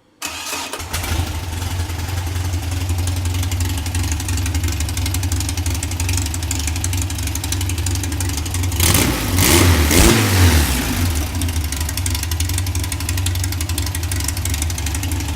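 Freshly built VW air-cooled 1955cc stroker flat-four with dual Weber ICT carburettors starting up and catching almost at once, then idling steadily. About nine seconds in it is revved once briefly and drops back to idle.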